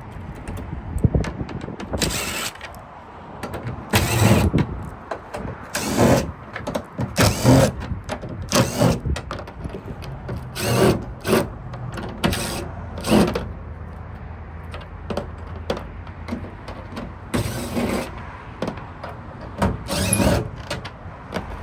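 Hand tools working the metal parts of a Ford F-150 tailgate lock: irregular sharp clicks, knocks and scrapes, one every second or so.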